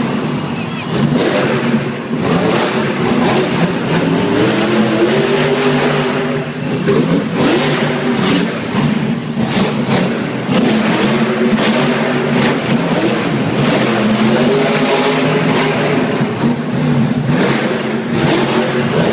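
Monster truck's supercharged V8 engine revving loudly, its pitch rising and falling, with frequent short sharp cracks.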